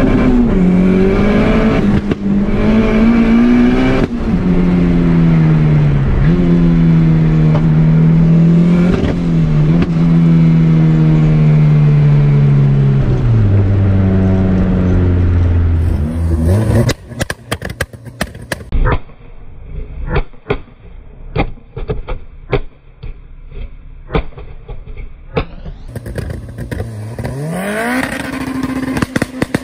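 Turbocharged Honda B18 VTEC four-cylinder in a classic Mini accelerating hard through the gears, heard from inside the cabin: the engine note climbs and drops at each shift. About halfway through, the sound changes to a run of sharp cracks and pops from the exhaust. Near the end, a rising rev as the car pulls away.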